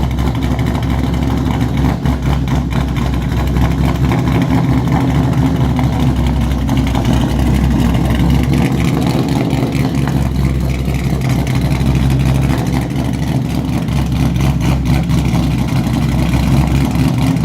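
2017 Ford Mustang GT's 5.0 V8 idling steadily, exhausting through long-tube headers straight-piped with no catalytic converters, mufflers or resonators.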